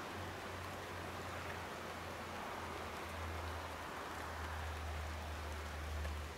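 Steady rain pattering on tree leaves, a soft even hiss with a few separate drop ticks, over a low steady hum.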